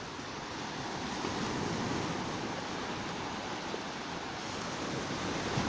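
Surf washing onto a beach, a steady rushing that swells and eases, with some wind on the microphone.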